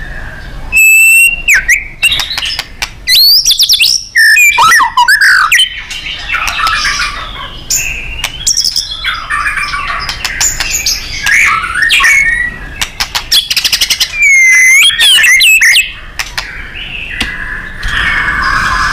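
White-rumped shama (murai batu) in full song: loud, varied phrases of clear whistles and swooping glides, mixed with rapid rattling trills and harsh, buzzy chattering.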